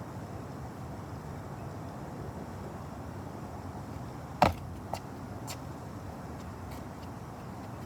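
Steady low background noise with one sharp knock about four and a half seconds in, followed by a few fainter clicks.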